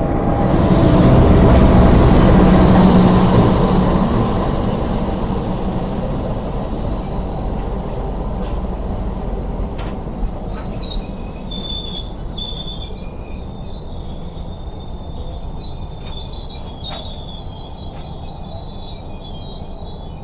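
KA Serayu passenger train running on the rails, heard from on board. A loud rush swells in the first few seconds and fades away, leaving steady running noise. From about halfway in, a high-pitched wheel squeal comes in over it.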